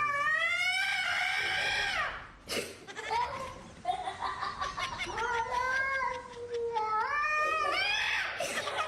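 Cat yowling: two long drawn-out meows, the first rising then falling, the second longer and wavering, climbing in pitch near its end.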